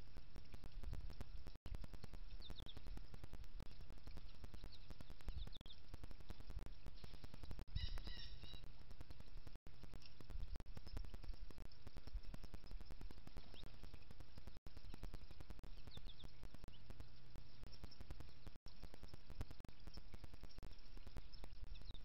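A few faint, short bird chirps at a backyard feeder, including a brief call of several quick notes about eight seconds in, over a steady low background rumble.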